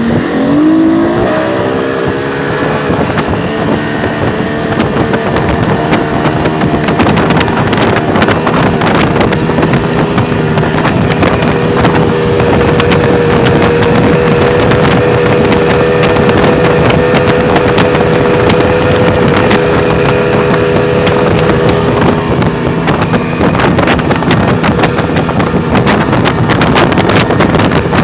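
Yamaha STR21 boat's Yamaha 200-horsepower engine running under way, rising in pitch in the first second or two and then holding a steady pitch. Wind buffets the microphone.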